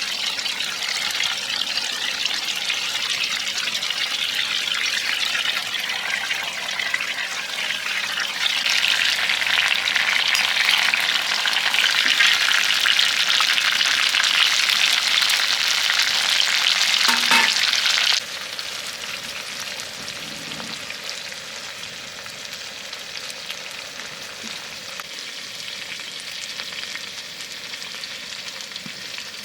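Food sizzling as it fries on a hot cooking surface: a steady, crackly hiss that grows louder partway through, then drops suddenly to a quieter sizzle about two-thirds of the way in.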